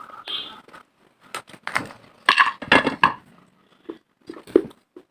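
Someone biting into and crunching hard, dry pieces of baked clay: a run of sharp, gritty crunches, loudest in the middle, with one more sharp bite near the end.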